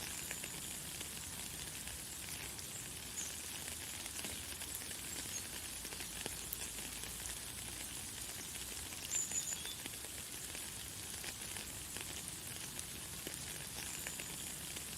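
Light, fine rain falling as a steady hiss with small patters, and a few short, high bird chirps scattered through it.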